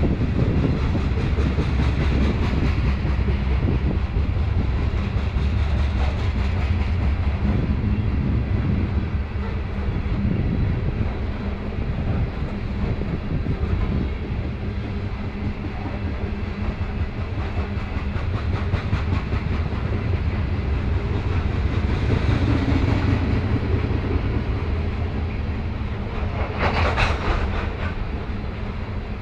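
Freight train of covered hopper cars rolling past close by: steady rumble and clatter of steel wheels on the rails, with a brief louder rattle near the end.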